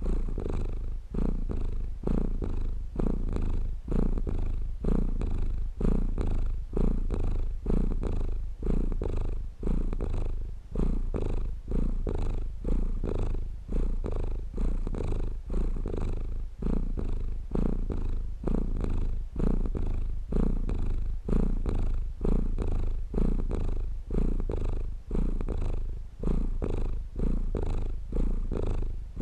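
Domestic cat purring steadily and close up, the purr swelling and easing with each breath a little more than once a second.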